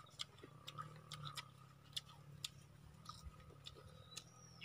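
Faint, irregular crunching of crispy fried swamp cabbage (kangkong) leaves being bitten and chewed.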